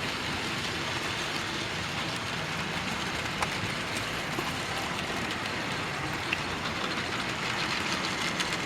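00 gauge model trains running on the layout: a steady whirr of small locomotive motors and wheels on the track, with a few faint clicks.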